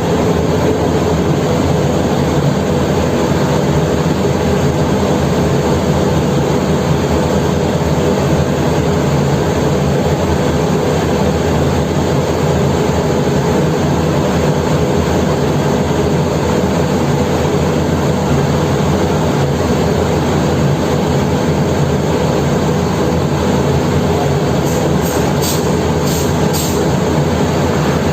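Large diesel engine running steadily at constant speed, a loud unbroken drone. A few faint high ticks come near the end.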